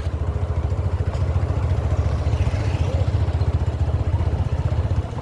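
Motorcycle engine running steadily, a continuous low throb.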